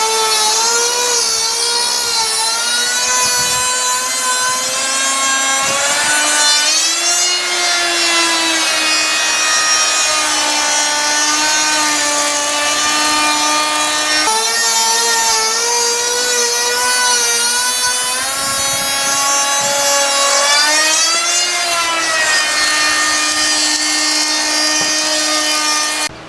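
Router milling an edge profile along a 6-inch-wide wooden board. The motor runs steadily, its whine shifting in pitch as the load on the bit changes, and cuts off at the end.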